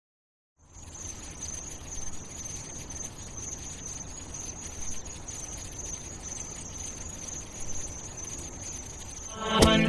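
Steady insect-like chirring with a constant high-pitched band over a low hiss, starting about half a second in. Music with a strong beat cuts in just before the end.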